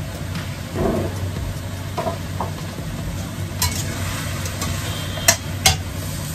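Food sizzling as it fries in a pan while being stirred, with a few sharp clacks of the utensil against the pan, the loudest two close together near the end.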